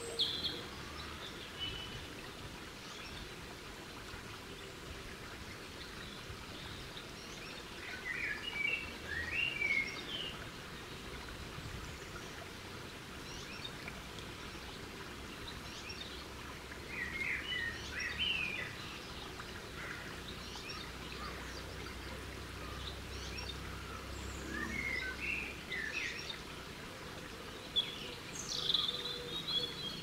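Garden birds singing in short song phrases, four of them several seconds apart, over a steady low background noise.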